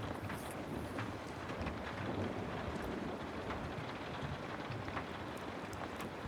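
Steady rain falling, a continuous even patter with many small ticks of drops scattered through it.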